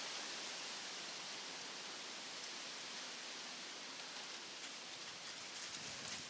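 Steady, even hiss of background noise, easing slightly toward the end, with a few faint ticks near the end.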